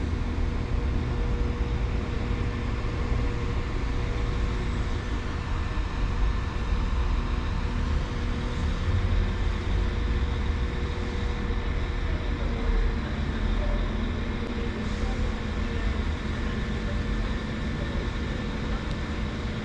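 Train running steadily: a continuous low rumble with a steady hum over it.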